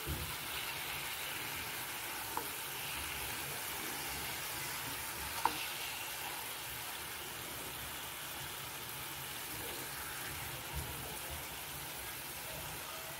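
Chicken pieces sizzling steadily in hot oil in a pan while a flat spatula scrapes and turns them. Short sharp clicks come about two and a half seconds in, then louder about five and a half seconds in, with a fainter one near the end.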